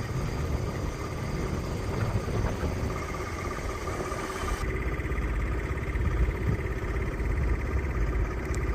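An engine running steadily with a low rumble. About halfway through, the high hiss drops away and the low rumble grows heavier.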